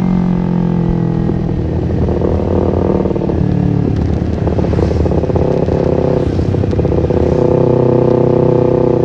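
Kawasaki Ninja 250fi motorcycle with an aftermarket R9 H2 SS exhaust, running under way. The engine note is steady, with a few shifts in pitch as the revs change.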